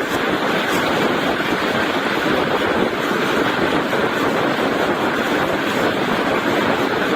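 Indian Railways passenger train running at speed: a steady rushing rumble of wheels on the track and wind.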